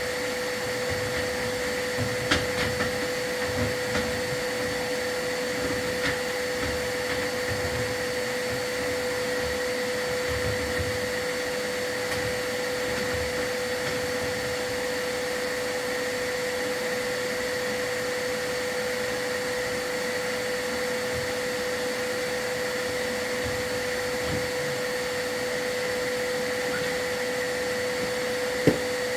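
Vacuum running steadily with a constant motor whine, as used to draw soot from the fireplace during a chimney sweep. A few light knocks sound in the first several seconds, and a single sharp knock comes near the end.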